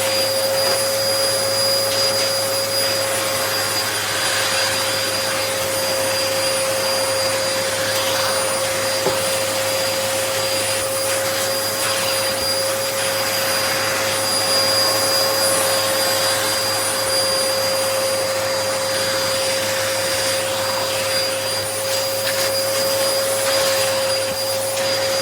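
Upright vacuum cleaner running steadily, its motor giving a constant whine over the rush of air.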